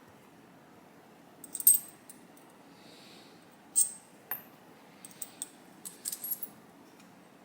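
Sharp metallic clinks and ticks of small metal objects being handled and set down: a quick cluster about a second and a half in, a louder single clink near four seconds, then a run of lighter taps.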